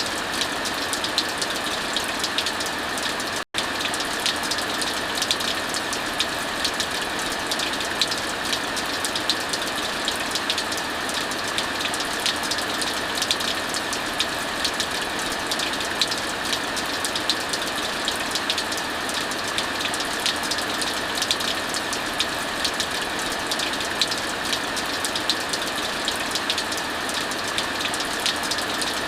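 Heavy rain falling steadily, mixed with a fireplace crackling in many small sharp pops. The sound cuts out for an instant about three and a half seconds in.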